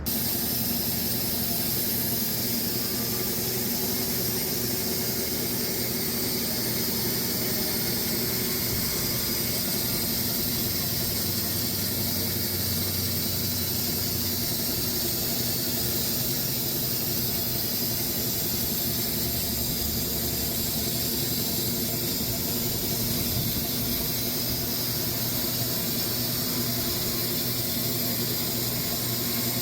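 Band sawmill running steadily as its blade cuts through a dry Bastogne walnut log: a steady engine hum under a loud, even high hiss from the blade in the cut.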